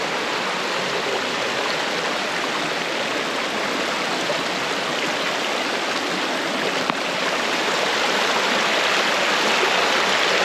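Shallow creek water running steadily over rocks, a little louder in the second half.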